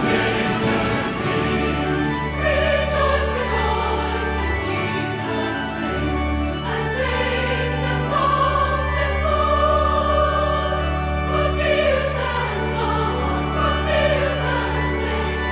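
Choral music: a choir singing long, slowly changing held notes over a steady low accompaniment.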